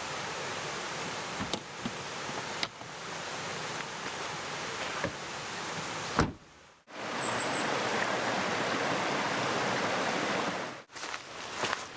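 Steady rushing of a mountain stream, with a few faint clicks and knocks over it. It cuts out suddenly about halfway through, goes near silent for a moment, then comes back.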